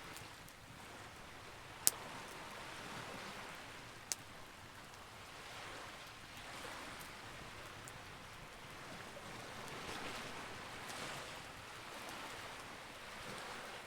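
Campfire burning: a soft rushing hiss that swells and fades, broken by two sharp pops of burning wood, a loud one about two seconds in and a smaller one about two seconds later.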